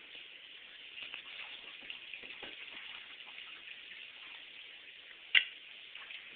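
Hand dishwashing at a kitchen sink: a steady hiss of water with small clinks of dishes, and one sharp, loud clank of a dish a little past five seconds in.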